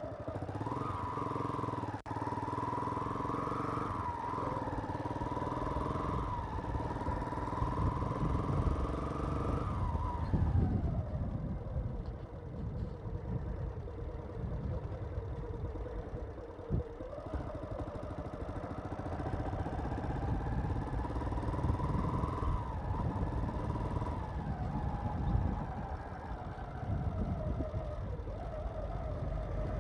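Motorcycle engine running while riding, its pitch dropping about ten seconds in and climbing again a few seconds later as the throttle changes, over a low rumble of wind and road.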